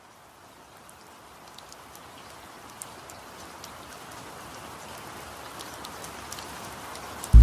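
Steady rain falling with scattered sharp drop ticks. It fades in from silence and grows gradually louder, and loud music cuts in at the very end.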